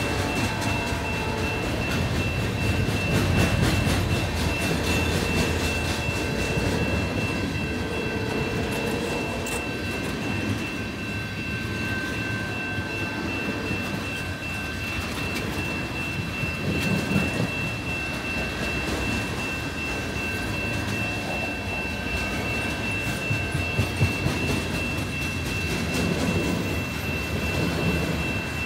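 Freight train of tank cars and covered hoppers rolling past over a grade crossing: a steady rumble and wheel clatter from the cars. A steady high-pitched ringing tone runs throughout.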